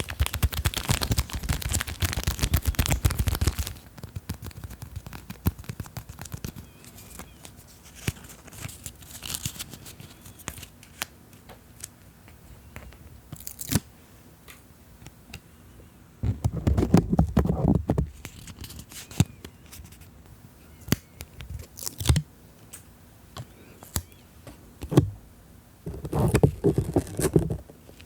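Close-miked ASMR handling of sticker sheets, stickers peeled and pressed onto the microphone: a dense run of quick crinkly clicks and scratches for the first few seconds, then scattered taps and crackles, with two louder stretches of rubbing on the mic, one in the middle and one near the end.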